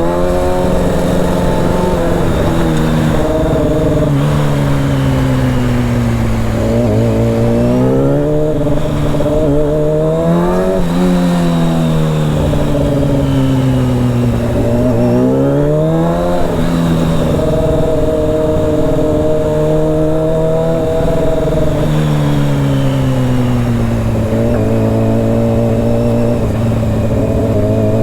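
Honda CBR600's inline-four engine under way: revs climb and drop several times as it accelerates through gear changes and rolls off, with stretches of steady cruising in between.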